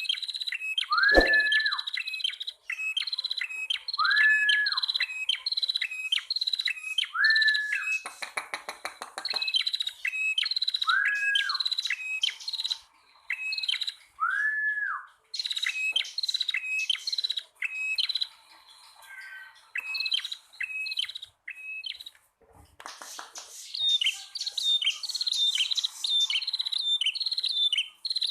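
Prenjak tamu songbirds, male and female, calling: fast runs of short, sharp, high chirps repeated many times, broken by a few lower arched whistled notes and one buzzy rattle about eight seconds in.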